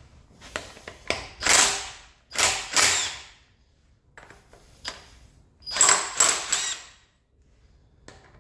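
Ratchet wrench clicking in several short runs as bolts are worked on the engine, with a pause midway.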